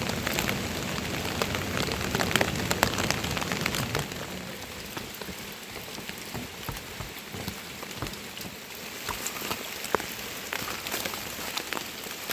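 Steady rain falling, with many separate drop hits close by. It eases a little about four seconds in.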